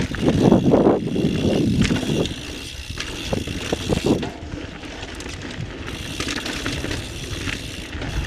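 Carbon full-suspension mountain bike ridden on a dirt trail: tyres on the ground, with the chain and bike rattling and knocking over bumps. It is loudest in the first second and again around four seconds in.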